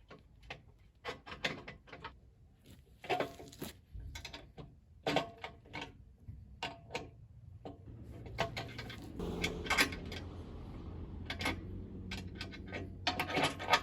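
Irregular clicks, clinks and knocks of hand tools and metal hardware as a plow is bolted onto an ATV, with a low steady hum joining about eight seconds in.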